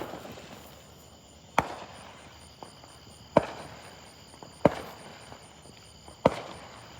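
Fireworks going off: about five sharp bangs at uneven gaps of one to two seconds, each followed by a fading echo.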